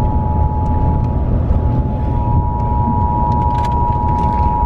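Weather alert radio sounding the Emergency Alert System attention signal, a loud, steady two-tone alarm announcing a new severe thunderstorm warning. A vehicle's low rumble runs underneath.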